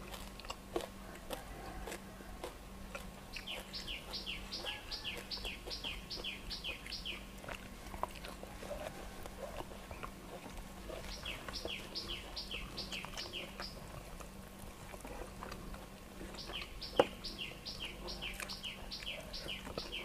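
A bird calling in fast runs of quick, evenly repeated high chirps, about three chirps a second, each run lasting a few seconds, three runs in all. Under it, soft clicks of eating, and one sharp knock near the end.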